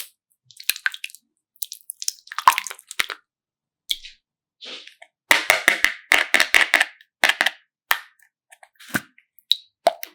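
Close-miked crackling and clicking from something being handled, in irregular bursts with short silences between, densest from about five to seven seconds in.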